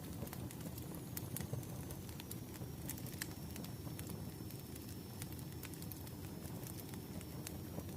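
Bonfire crackling: a steady low rumble of burning wood with frequent sharp, irregular pops and snaps.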